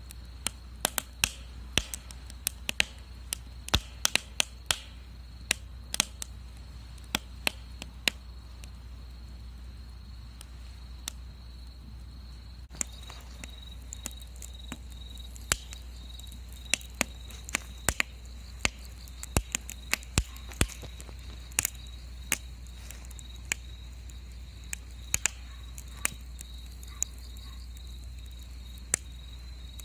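Wood fire crackling in a Solo Stove Bonfire steel fire pit: irregular sharp pops and snaps over a steady low rumble. A continuous high, thin tone runs underneath, like an insect trill.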